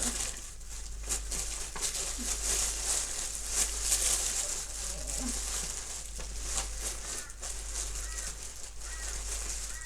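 Rummaging through packaging and supplies: irregular rustling with light clicks and knocks as things are moved about in a search.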